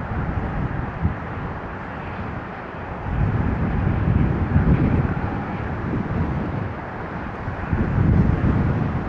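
Low, gusty rumble of jet aircraft at an airport mixed with wind buffeting the microphone, swelling a few seconds in and again near the end.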